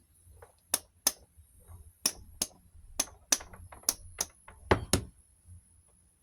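Sharp taps on a Duracraft box fan's motor, about a dozen at uneven spacing with two heavier knocks close together near the end, as the freshly oiled sleeve bearings are knocked into alignment.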